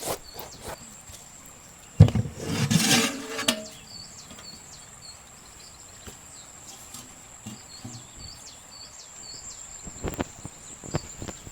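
Small birds chirping again and again over a steady high-pitched whine. About two seconds in, a loud sudden burst of noise lasts about a second and a half.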